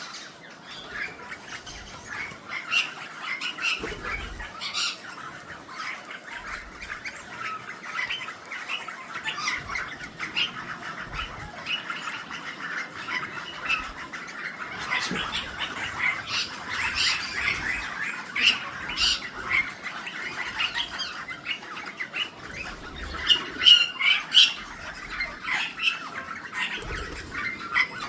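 A crowd of captive parrots, ringneck parakeets, rosellas and plum-headed parakeets, squawking and chattering at once in a steady chorus of short calls, with a few louder shrieks a few seconds before the end.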